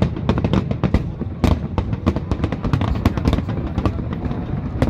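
Aerial fireworks bursting in rapid succession: a dense run of sharp cracks and bangs, several a second, over a constant low rumble of booms.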